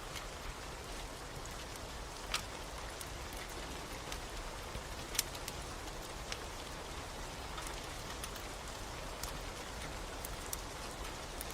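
Steady rain hiss with scattered sharp pops and crackles from a wood fire. The two loudest pops come about two seconds and five seconds in.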